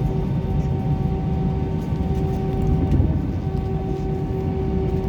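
Steady airliner noise: a low rumble with a constant whine held on two steady tones, which fade briefly about three seconds in.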